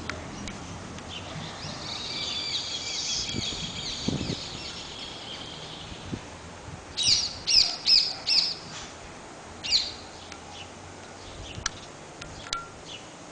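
Birds chirping: a high twittering song for a few seconds, then four loud, sharp calls in quick succession around the middle, one more a second later, and a few faint single chirps near the end.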